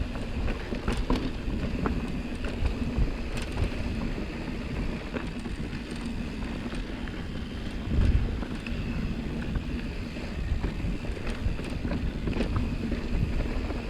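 Mountain bike rolling down a dusty dirt singletrack: steady tyre and wind noise with scattered clicks and rattles from the bike, and a heavier thump about eight seconds in.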